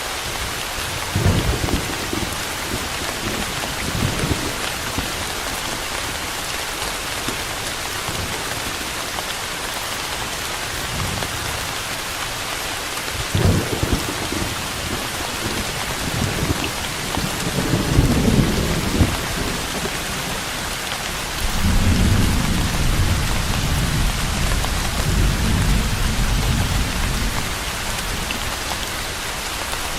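Steady heavy rain with several rolls of thunder: short low rumbles near the start and about halfway, and a longer rumble in the last third.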